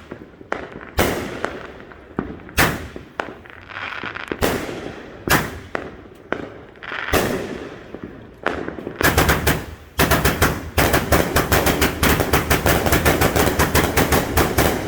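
Consumer fireworks cake firing, with sharp reports about once a second for the first nine seconds, then a rapid barrage of many shots a second. It starts real slow and then throws a lot at once, close enough to shower the listeners with pellets.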